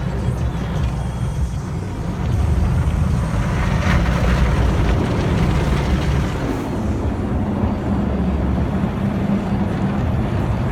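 Automatic car wash heard from inside the car: a steady low rumble with a rushing wash of noise that grows louder about two seconds in and stays loud through the middle.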